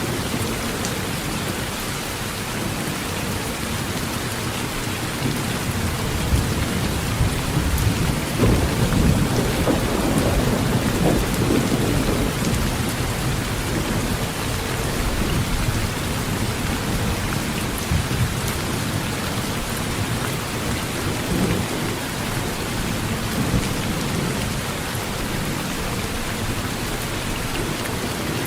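Heavy rain drumming steadily on a metal roof, with rolling thunder rumbling low beneath it and swelling louder about a quarter of the way in.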